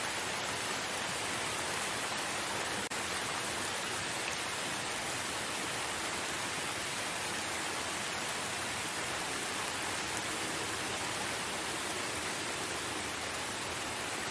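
Steady rain falling, an even hiss with no distinct drops standing out, briefly dipping in level about three seconds in.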